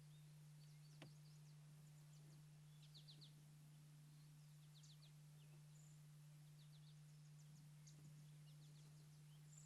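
Faint songbird calls: clusters of quick, high-pitched notes repeated every second or two, over a steady low hum.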